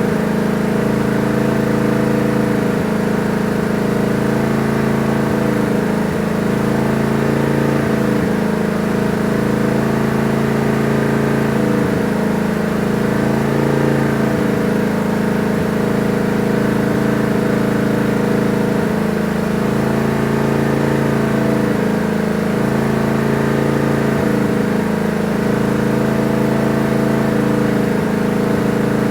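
Tractor engine running steadily, its tone swelling and fading in a slow, regular pulse about every two seconds.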